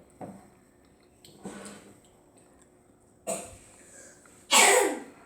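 A person coughing: three short, harsh bursts, the last near the end the loudest.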